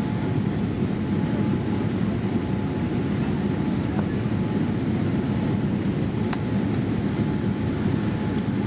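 Steady low rumble of air and engine noise inside a Boeing 787-8's passenger cabin, with a short sharp click about six seconds in.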